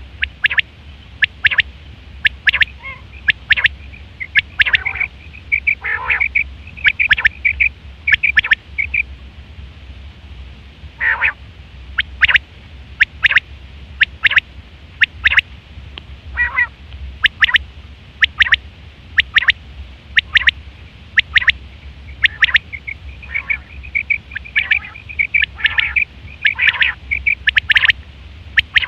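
Quail calling: a long series of short, sharp notes, a few a second, some running together into quick runs, over a faint steady low hum.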